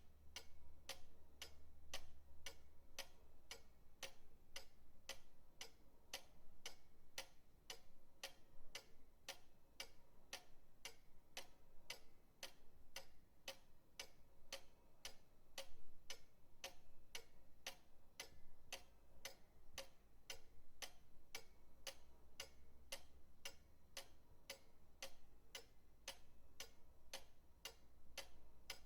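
Pendulum clock ticking steadily, about two even ticks a second, over a faint low hum.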